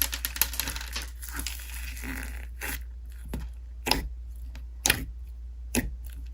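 Slime being squished and worked by hand: dense crackling at first, then single sharp pops about once a second.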